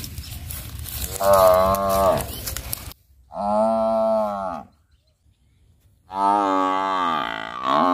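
A buffalo lowing: three drawn-out, moo-like calls, the first over a hissing background, the last the longest, with a brief dip in pitch partway through.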